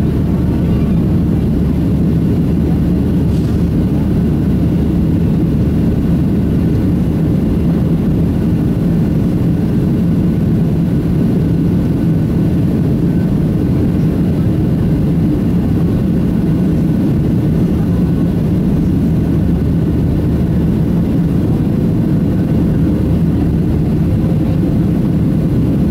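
Steady cabin noise of a Boeing 737-700 airliner climbing out: the low rumble of its CFM56 jet engines and the airflow, heard from inside the cabin at a window seat.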